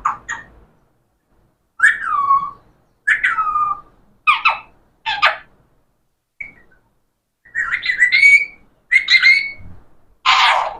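Pet parrot whistling and squawking in a string of short separate calls, some gliding down in pitch and others rising. The loudest is a harsh squawk near the end.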